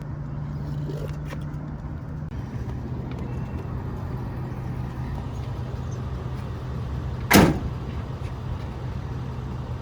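Pickup truck engine idling steadily, its hum dropping slightly in pitch about two seconds in. One loud, sharp clunk comes about seven seconds in.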